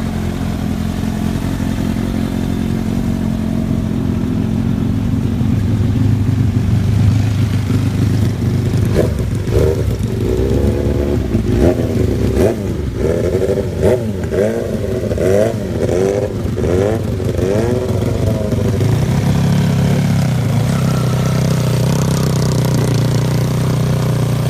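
Superbike engine idling, then revved in a run of quick throttle blips, about one a second, for some nine seconds before settling back to a steady idle.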